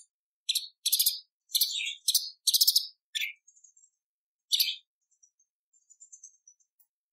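Cucak cungkok leafbird singing: short bursts of rapid, rattling high notes, crowded together in the first three seconds, one more burst about four and a half seconds in, then faint high twittering.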